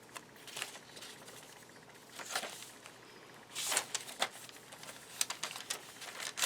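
Paper rustling and light taps as journal pages and a paper journaling card are handled, in a few short bursts, the loudest about three and a half seconds in.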